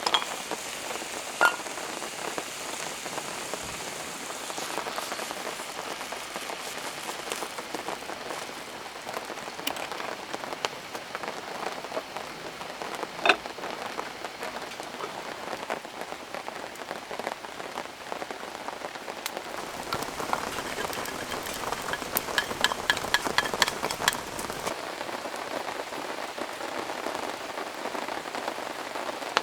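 Heavy rain falling steadily, pattering on a surface, with a couple of sharp single taps and a quick run of ticks about three-quarters of the way through.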